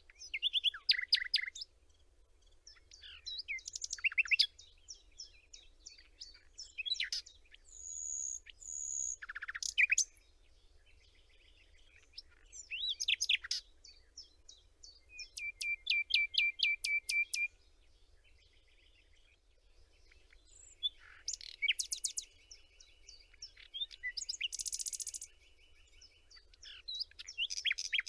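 Songbirds singing: a string of varied high chirps, trills and whistled phrases with short gaps between them, including a fast, even trill about halfway through.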